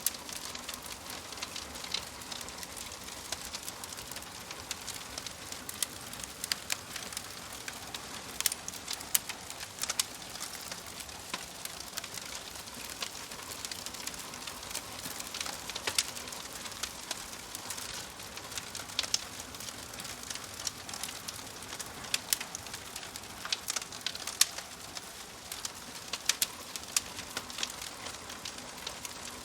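Wood fire crackling in a fireplace: a steady hiss of burning logs with irregular sharp pops and snaps throughout.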